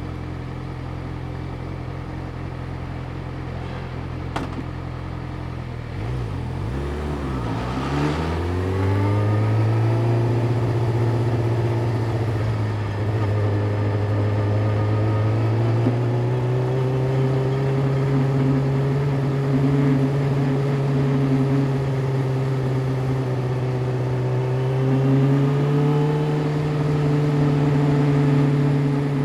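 Yamaha YZF-R6 inline-four engine idling steadily, with a single click about four seconds in. Around six seconds in the note dips and swoops, then the bike pulls away and runs at low, slowly rising engine speed, louder than at idle.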